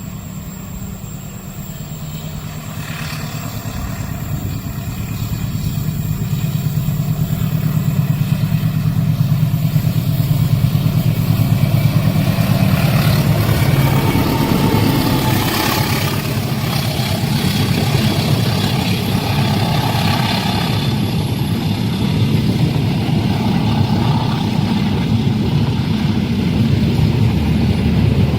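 Heavy vehicle engine rumble that swells over the first ten seconds and then holds steady, with a rushing noise on top.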